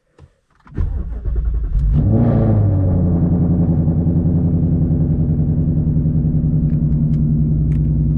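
Infiniti Q50's engine being started: the starter cranks for about a second, the engine catches with a brief rev flare about two seconds in, then settles into a steady idle.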